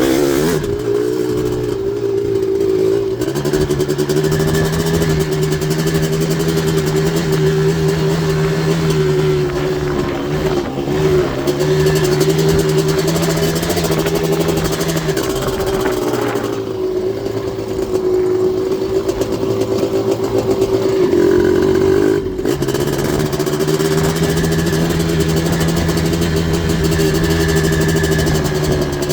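Yamaha Blaster's big-bore 240cc single-cylinder two-stroke engine with an FMF exhaust, running hard at high revs on a ride. The note stays nearly steady, with a few brief dips in revs as the throttle comes off and back on.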